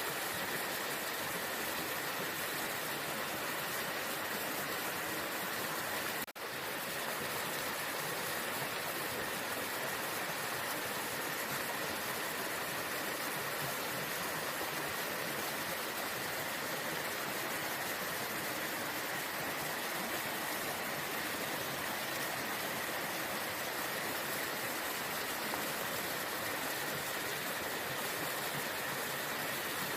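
Waterfall rushing as a steady, dense roar of falling water, with a momentary break about six seconds in.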